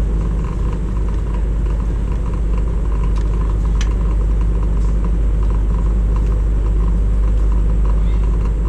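A vehicle engine idling steadily, a low even rumble, with one brief click a little before the middle.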